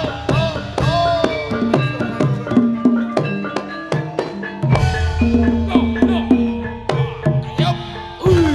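Javanese gamelan music: struck bronze metallophones ringing in a busy, even rhythm over hand drums whose strokes bend in pitch, with a deep bass tone coming in about halfway through.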